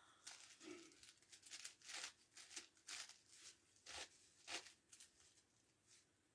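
Plastic 9x9x9 Rubik's Cube being turned by hand: an irregular run of short clicks and scrapes as its layers are twisted, tailing off near the end.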